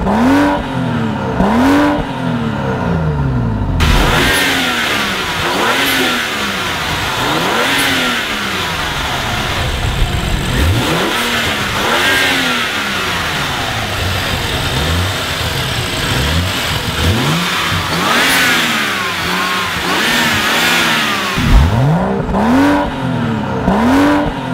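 BMW M235i's 3.0-litre turbocharged straight-six being revved repeatedly at a standstill, each blip climbing and falling back, about one every one to two seconds. It is heard first at the exhaust tip, then from the open engine bay after a few seconds.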